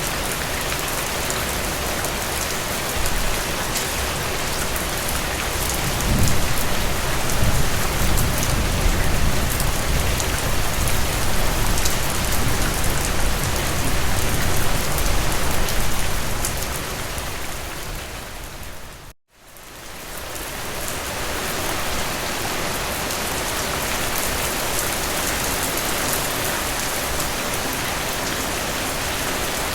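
Heavy rain falling steadily, a dense even hiss of drops on surfaces. A deeper low rumble comes in for several seconds in the first half. Just past the middle the rain fades to a moment of silence and fades back in.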